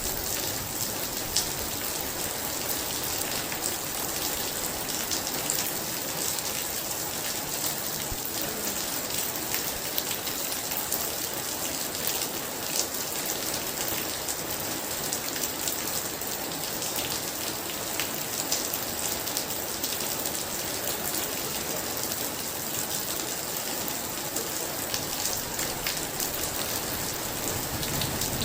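Very heavy rain falling steadily, a continuous hiss with many sharp ticks of individual drops striking close by.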